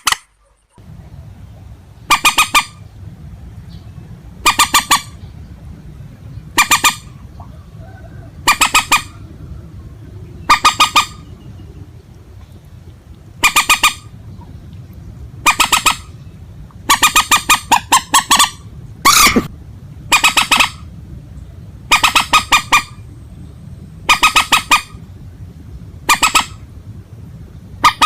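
Rail calls of the swamphen–waterhen kind: short honking bursts of several rapid notes, repeated about every two seconds, over a steady low hum.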